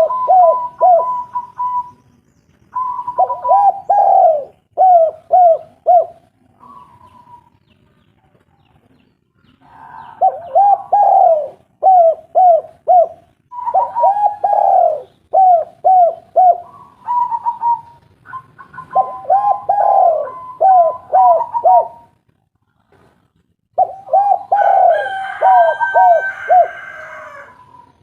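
Spotted doves cooing in phrases of short, repeated, arching coos, with pauses between phrases and at least two birds overlapping. Near the end, higher chirping joins the coos.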